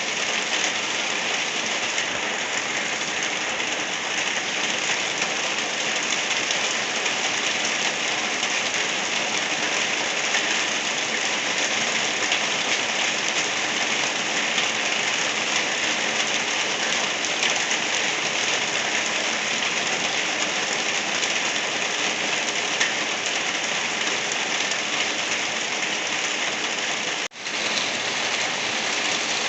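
Steady light rain falling, an even hiss with no let-up. It cuts out for a split second about 27 seconds in, then resumes.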